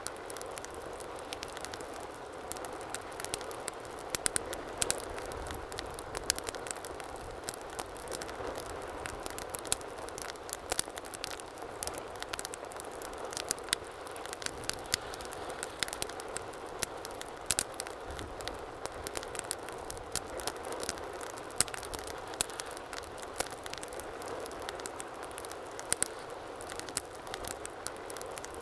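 Wood fire burning in a fireplace: a steady low hiss with many sharp, irregular crackles and pops.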